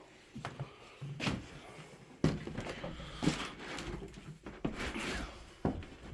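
Footsteps climbing a staircase: separate knocks roughly once a second, with faint rustling between them.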